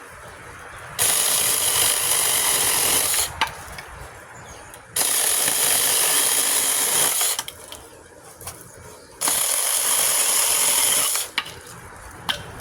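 A 21-volt battery-powered mini chainsaw run in three bursts of about two seconds each, its motor whirring and chain rattling, with short pauses between.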